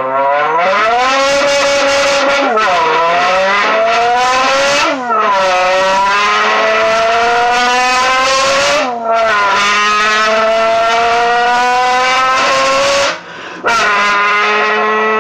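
Human car-engine imitation hummed through a bent aluminium Arizona can, the non-turbo version. A buzzing tone repeatedly climbs in pitch like an engine accelerating through the gears, breaking off briefly four times between runs.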